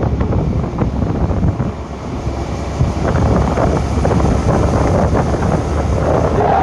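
Wind buffeting the microphone during a ride, loud and steady with a low rumble underneath. A steadier higher hum comes in near the end.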